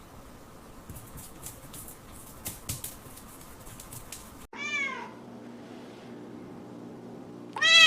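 AI-generated kitten meowing twice: a short meow about halfway through and a louder, longer one near the end, each rising then falling in pitch. Faint light clicking runs through the first half.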